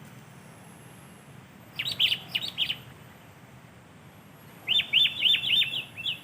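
Sooty-headed bulbul (kutilang) singing two quick bubbly phrases of falling chirping notes, about three seconds apart.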